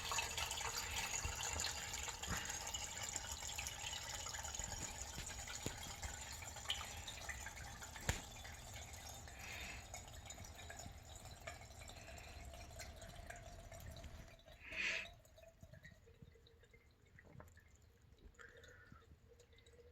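Water running and splashing in a sump pump pit, slowly fading, then stopping about 14 seconds in with a brief louder whoosh; after that only faint drips. The pit is filling fast enough in a flood-level downpour that the pump cycles every 15 to 30 seconds.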